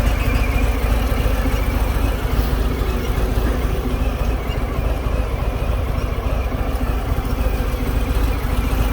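Harley-Davidson Fat Bob's V-twin engine idling with a steady, deep rumble.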